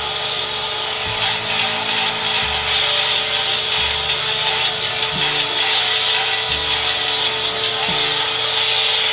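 Battery-powered Road Rippers toy car running its electronic engine sound: a steady, harsh buzzing from its small speaker, with low notes that shift every second or so and a couple of short swoops in pitch.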